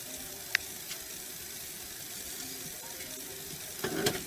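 Steady background hiss, with a single sharp click about half a second in and a short louder noise near the end.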